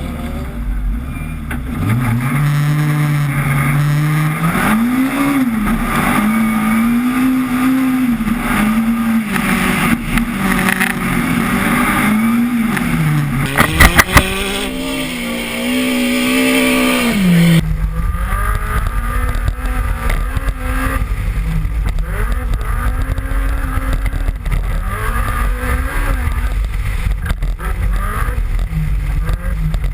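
BMW M3 engine running hard, its revs rising and falling repeatedly as the car is driven on the ice track. A few sharp clicks come about 14 seconds in, and a little later the sound turns to a heavier low rumble under fainter engine notes.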